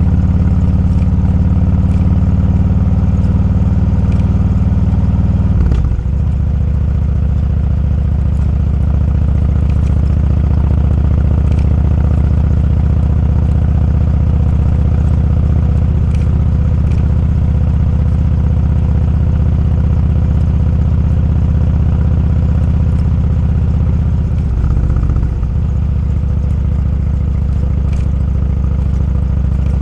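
Motorcycle engine running steadily while riding, its low note holding even, with brief breaks in the engine note about six seconds in and again near the end, as in gear changes.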